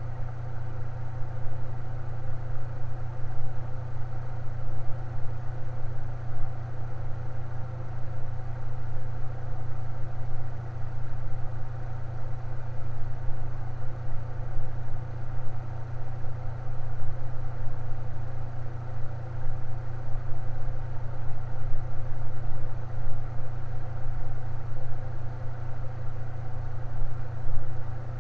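Electric fan running steadily: a strong low hum with an even whir and several faint steady tones above it, unchanging throughout.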